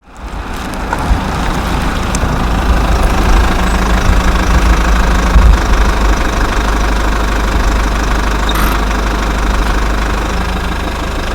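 Isuzu C240 four-cylinder diesel engine running steadily at idle.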